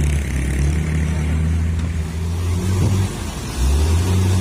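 Loaded dump truck's engine running hard as the bogged-down truck tries to move through soft ground. The engine note drops briefly about three seconds in, then picks up again.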